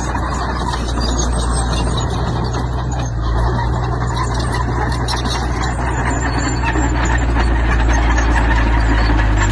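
Heavy diesel construction machinery running steadily at close range, its engine with a continuous clatter and rattle over it. It gets a little louder about two-thirds of the way through.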